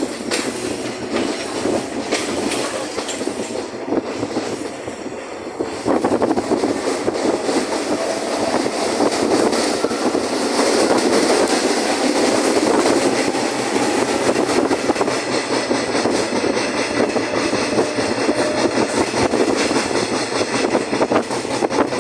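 Urquiza line commuter train heard from on board, running along the track with the wheels clicking over the rail joints. The running noise gets louder about six seconds in and stays up.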